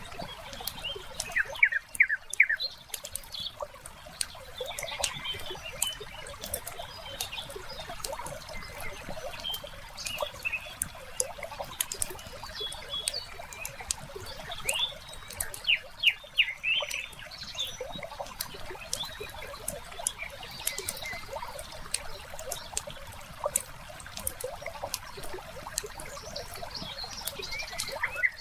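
Wood fire crackling with frequent sharp pops and snaps, with birds chirping now and then over it.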